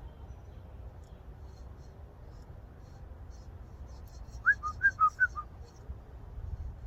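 A short whistled phrase about four and a half seconds in: some seven quick notes alternating between a higher and a lower pitch, over a low steady background hum.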